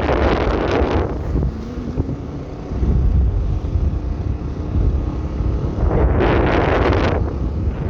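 Wind buffeting the microphone of a moving motorbike, over a steady low rumble, with a louder rushing surge in the first second and another about six seconds in.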